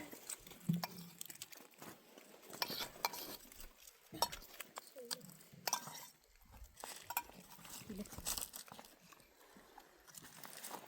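Scattered clinks and knocks of cooking utensils and pots, irregular and short, with a few brief faint calls among them.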